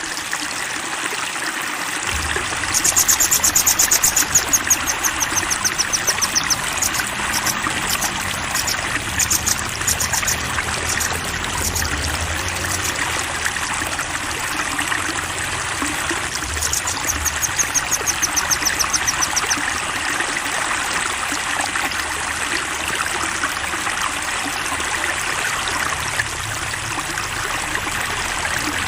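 Steady rush of flowing water, with a songbird singing rapid series of high, slightly falling notes in several bursts over it.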